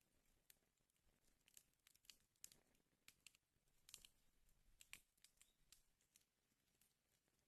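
Wood fire burning in a fireplace, crackling faintly: scattered sharp snaps and pops, about two a second, over a soft hiss, with the strongest pops about four and five seconds in.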